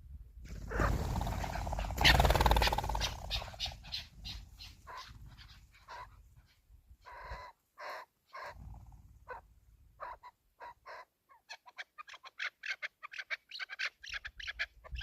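Chukar partridge calling: a long series of short clucking notes that speeds up into a rapid chatter near the end. Early on there is a brief rush of rumbling noise.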